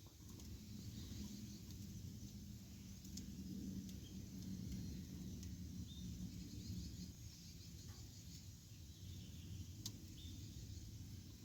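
Campfire burning, with a low steady rush of flame and a few sharp crackles, one about three seconds in and one near the end. Faint bird or insect chirps sound in the background.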